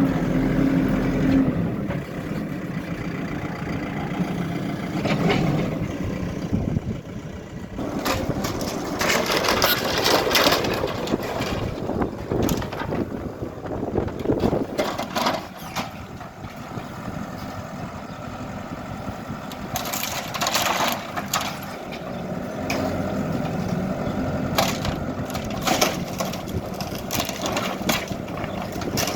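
HIDROMEK backhoe loader's diesel engine running while building debris crunches and cracks under the machine during demolition. There are bouts of crashing about eight to eleven seconds in and again around twenty seconds.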